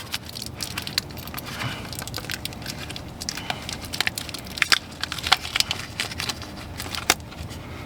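Irregular clicks and crackles of plastic packaging being cut and handled as a new diesel fuel filter element is freed from it, a few sharper snaps among them.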